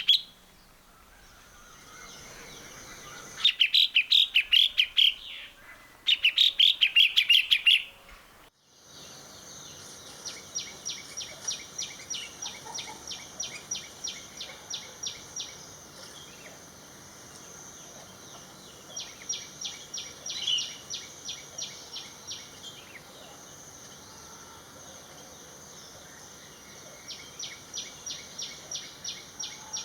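Ashy drongo calls: two loud bursts of rapid, repeated high notes in the first eight seconds. Then a different recording starts abruptly, with repeated runs of fast, high ticking notes over a steady high hiss.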